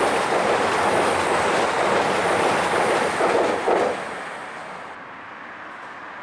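East Midlands Trains Class 222 Meridian diesel multiple unit passing at speed close by: a loud, steady rush of wheel and engine noise with a few clacks near the end. About four seconds in it drops away as the last coach goes by, leaving a quieter steady rumble.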